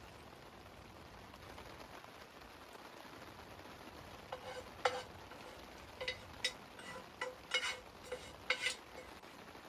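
Cooking in a pan: a faint steady sizzle, then from about four seconds in a run of light metal clinks and scrapes of a utensil stirring in the pan.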